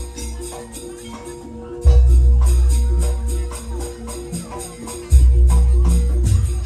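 Jaranan ensemble music. A fast, even rhythm of jingling, metallic percussion runs over a held tone, with a deep, long-decaying boom landing twice, about three seconds apart.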